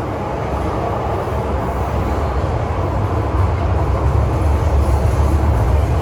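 MTR M-train, a Metro-Cammell electric multiple unit, running along the track, heard from inside the carriage: a steady deep rumble of wheels and running gear that grows a little louder from about two seconds in.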